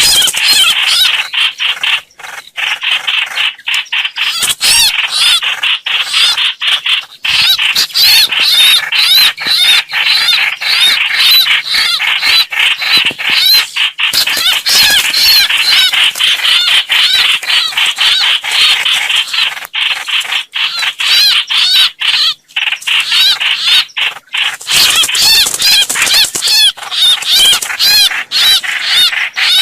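Hoành hoạch bird calls played as a trapping lure ("mồi"). A dense, rapid stream of repeated high chattering notes goes on with only brief breaks.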